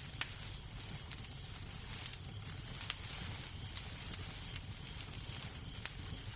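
Crackling wood fire in a fireplace: a steady low hiss with irregular sharp pops and crackles, a few louder snaps scattered through.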